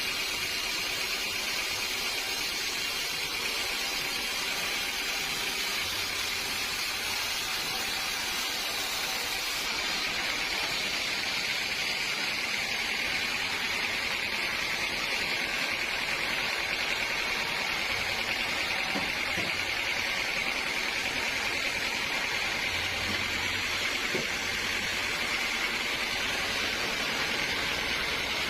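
Sawmill machinery running steadily: a constant hiss with a high whine held throughout.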